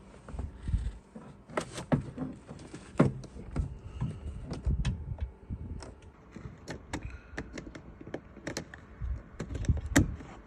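Irregular plastic clicks, taps and knocks as a car door card is handled and its door-control connectors are plugged back in.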